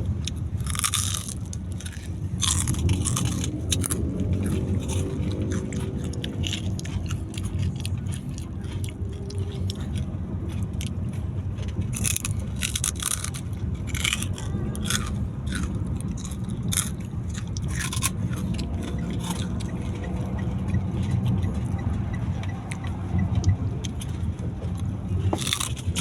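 Chicharron (fried pork rinds) being crunched and chewed: many short, sharp, irregular crunches over the steady low rumble of a car's cabin.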